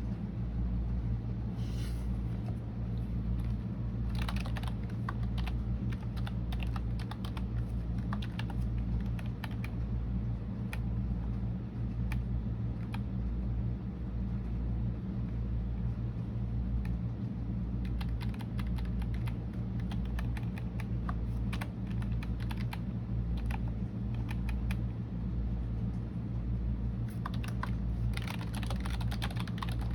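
Typing on a computer keyboard in bursts of rapid key clicks with short pauses between, over a steady low hum.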